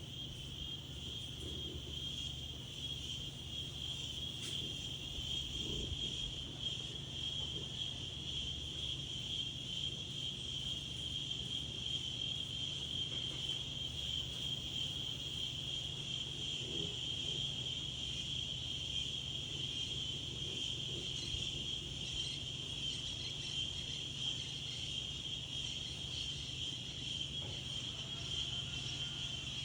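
A steady chorus of insects, a continuous high-pitched trill that never breaks, over a low rumble of wind.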